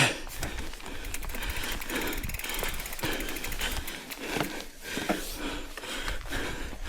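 Mountain bike rolling down a rough, wet trail, with tyre noise and scattered knocks and rattles. About a second in, the rear freehub ticks rapidly as the rider coasts.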